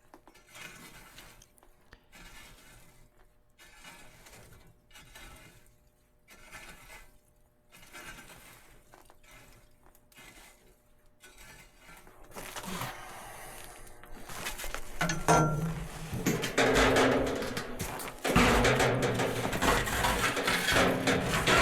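Ashes being raked out of an outdoor wood boiler's firebox with a metal tool: soft scraping strokes about once a second. Partway through, it turns into much louder metal scraping, clinking and clanking.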